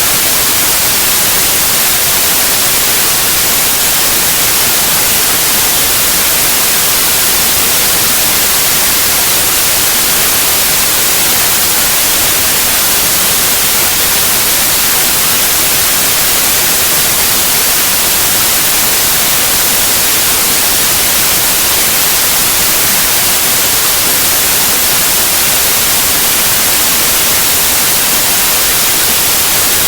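Steady white noise: an even, loud hiss, strongest in the high frequencies, with no changes.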